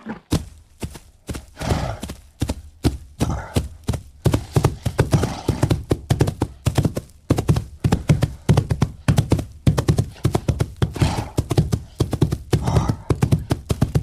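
White rhinoceros cropping and chewing grass close to the microphone: a rapid run of tearing, crunching bites, several a second, with a few breathy exhalations between them.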